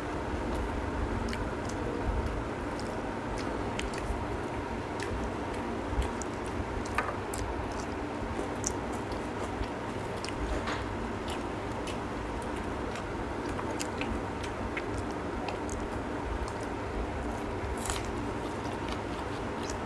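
Two people eating roti and egg curry by hand: chewing and mouth sounds, with scattered short clicks as the roti is torn and fingers touch the plates. A steady background hiss runs underneath.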